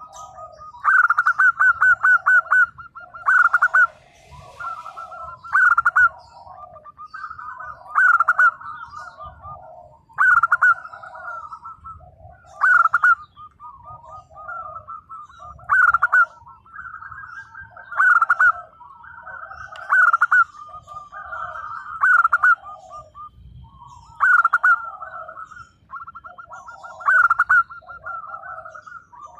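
Zebra dove (perkutut) cooing its song over and over, a new phrase about every two seconds. Each phrase is a quick stuttering run of notes followed by lower rolling coos.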